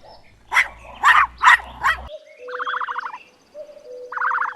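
Puppy yipping: four short, high barks in quick succession. About two seconds in there is a cut, and a different animal's short trilled calls follow, each about half a second long.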